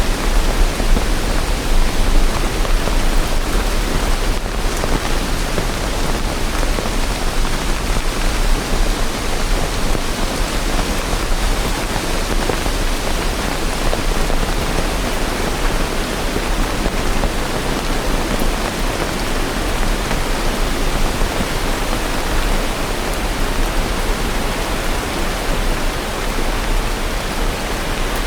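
Steady rain: a dense, even hiss with no single drops or thunder standing out.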